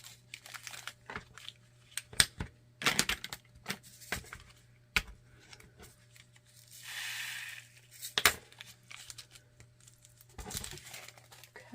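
Small plastic bags being handled: crinkling plastic and scattered light clicks and taps, with a longer rustle about seven seconds in and a sharper click just after it.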